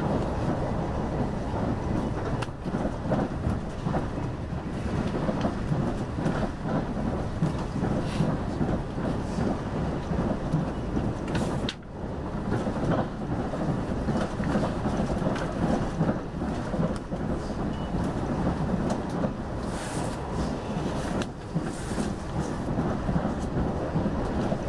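Steady rumble of the Limited Express Yakumo electric train running at speed, heard from inside the passenger car: wheels on rail and the hum of the car, with a few sharp clicks and a brief dip about twelve seconds in.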